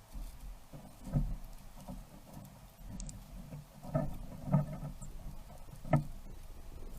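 Irregular dull knocks and taps, with four louder ones about one, four, four and a half and six seconds in.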